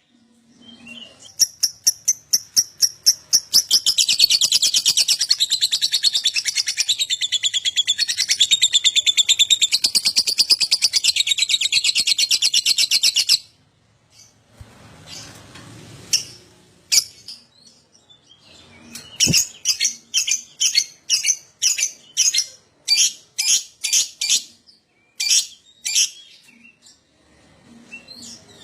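Lovebird ngekek: separate high chirps quicken into a long, rapid, unbroken chattering trill of about nine seconds that cuts off suddenly. After a pause, a string of sharp separate chirps follows, about two a second.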